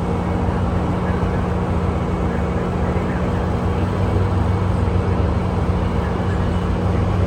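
Diesel engines of a CN freight train's GE Evolution-series locomotives running with a steady low drone, growing slightly louder.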